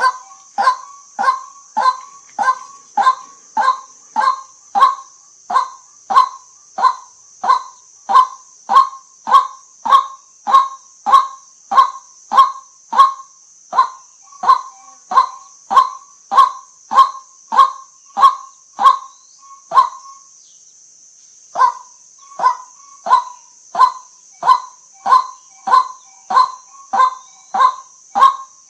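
White-breasted waterhen calling, a short kwak note repeated about twice a second, breaking off for about a second and a half near two-thirds through, then picking up again. A faint steady high hiss runs underneath.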